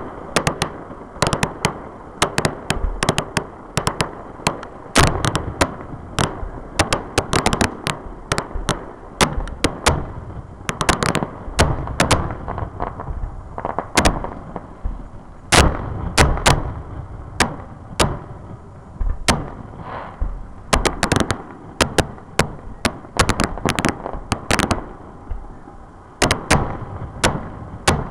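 Aerial fireworks display: a rapid, unbroken run of shell launches and bursts, several sharp cracks and deep booms a second, with rumble filling the gaps between them.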